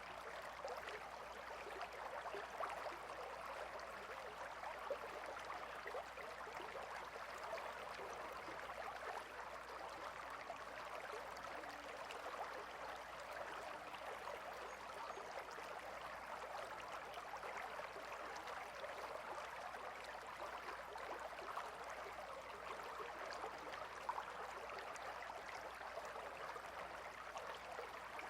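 Gentle river flowing steadily over stones, a continuous babbling and splashing.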